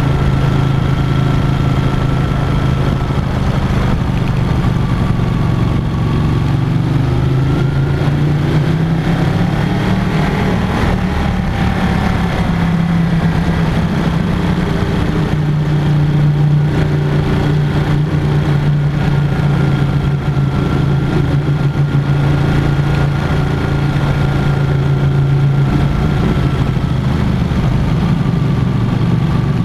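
Sport motorcycle engine running at a steady cruise inside a road tunnel, its pitch dipping and rising gently a few times.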